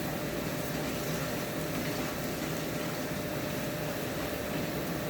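Chicken, garlic and ginger paste and ground spices frying in oil in a pan: a steady sizzle, with a faint steady hum beneath it.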